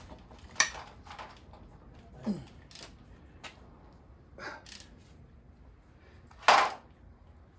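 Scattered metal clinks and knocks of hand tools and engine parts being handled, about six separate strikes, the loudest a sharp clank about six and a half seconds in.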